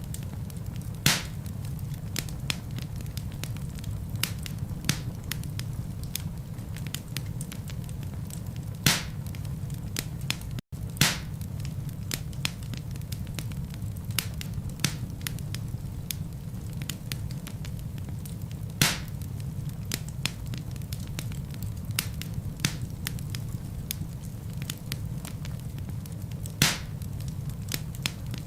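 Wood fire burning in a fireplace: a steady low rumble of flames under continual small crackles, with a louder pop from the burning logs every several seconds. The sound cuts out for an instant a little over a third of the way in.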